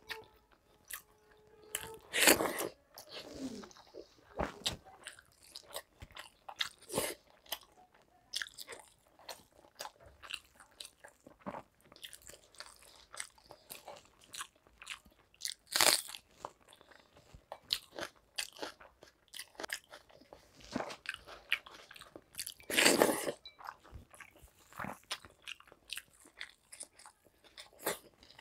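A person eating close to the microphone: wet chewing and smacking, broken by irregular sharp crunches. The loudest crunches come about two seconds in, near the middle and about three-quarters through.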